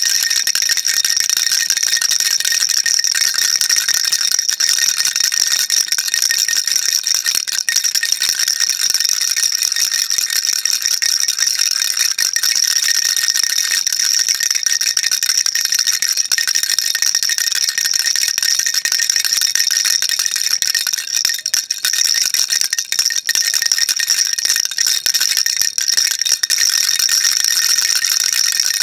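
Baby rattle shaken without a break: a dense, steady, high rattling, with a thin ringing note running through it.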